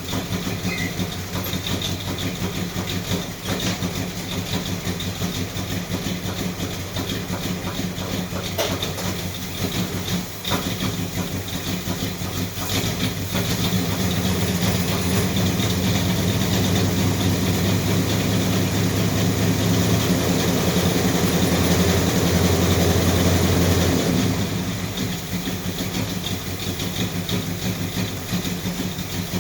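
GM J-body car's engine idling steadily, growing louder about halfway through for some ten seconds, then settling back.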